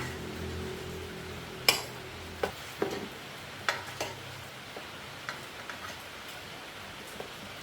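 Sharp clicks and knocks of hand work in a repair workshop, about eight of them scattered irregularly, over a steady hiss. A low hum fades out in the first two seconds or so.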